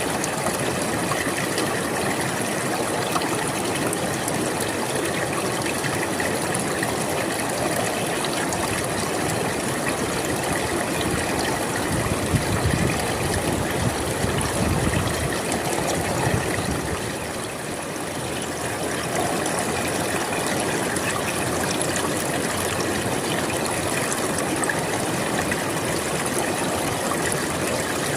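River water flowing steadily, a continuous rushing. Near the middle it swells for a few seconds into a deeper, louder rush, then eases briefly.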